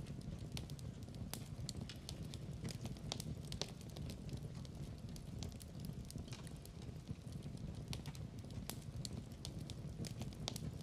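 Fireplace crackling steadily: a low rumble of burning with frequent small sharp pops and snaps scattered through it.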